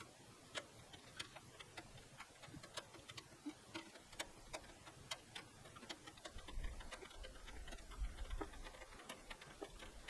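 Faint, irregular ticks and clicks, about two or three a second, with a low rumble from the middle to near the end.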